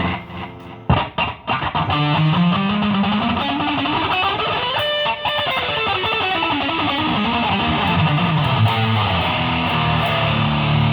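Distorted electric guitar played through a Fender Bassman 200 bass amp: a run of notes that climbs steadily in pitch, holds a high note about halfway through, then steps back down low.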